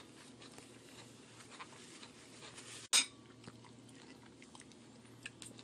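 Quiet chewing of crispy fried chicken wings, with faint scattered clicks and one sharp knock about three seconds in.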